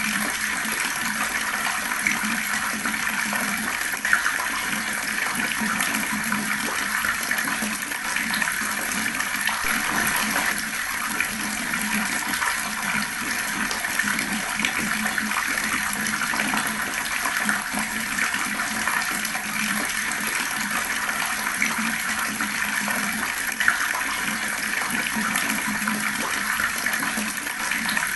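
Fast-flowing water running in a steady, even rush without a break, with a couple of brief louder splashes.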